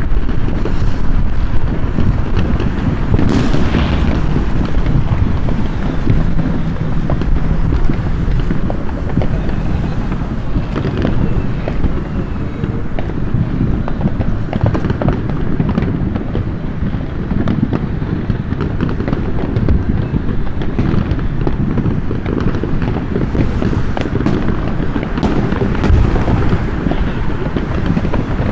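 Dense, continuous barrage of fireworks going off all around: an unbroken low rumble of overlapping booms with many sharp pops and crackles scattered through it.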